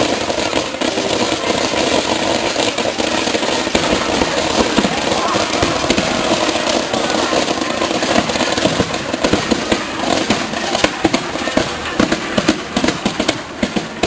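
Starmine fireworks crackling and popping over the chatter of a crowd of spectators, the sharp bangs coming thicker in the second half.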